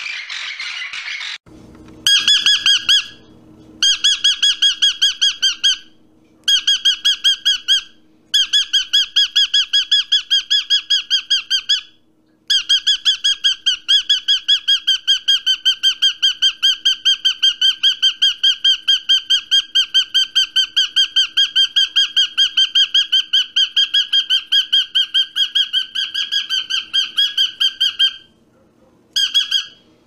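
A bird squawking in fast, even runs of short, high calls, about six a second, in several long bursts with brief breaks.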